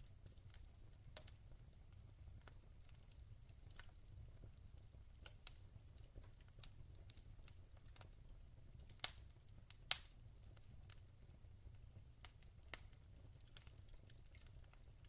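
Log fire crackling: scattered small sharp crackles over a low steady rumble, with two louder pops about nine and ten seconds in.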